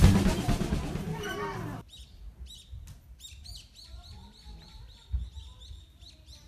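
Background music fading out over the first two seconds, then birds chirping in the trees: short, high calls repeated about three times a second. A single low thump about five seconds in.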